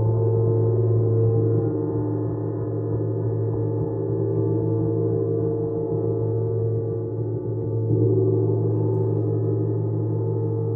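A gong sounding as a long, sustained drone of many steady overlapping tones, with a deep low hum, swelling again about eight seconds in.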